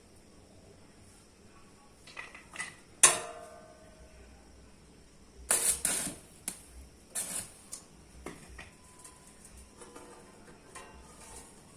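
Metal parts knocking and clanking as they are handled. One loud ringing clank about three seconds in, a burst of clanks a few seconds later, then scattered lighter knocks.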